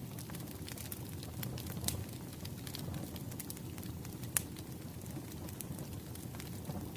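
Wood fire crackling: a steady low rumble of burning logs with scattered sharp pops, one louder snap about four and a half seconds in.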